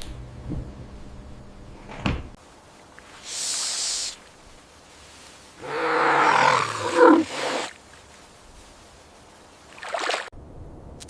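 Cat hissing, then a loud, rough growling yowl lasting about two seconds, and a short cry near the end.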